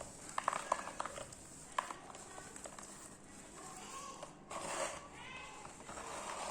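Dry pure-cement balls crumbling by hand: sharp crackling snaps in the first two seconds, then a longer gritty crunch about four and a half seconds in. A short pitched cry, like an animal call, sounds just after the crunch.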